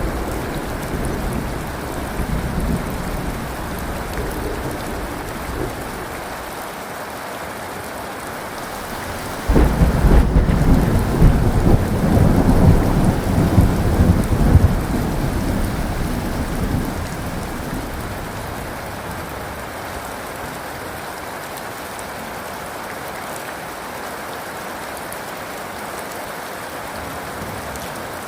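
Steady rain with thunder. A low rumble fades out over the first few seconds. About a third of the way in a sudden loud thunderclap breaks, then rolls on for several seconds before dying away under the continuing rain.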